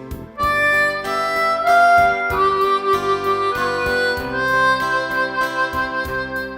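Diatonic harmonica playing a slow melody of held notes over gentle acoustic guitar accompaniment, the harmonica coming in louder about half a second in.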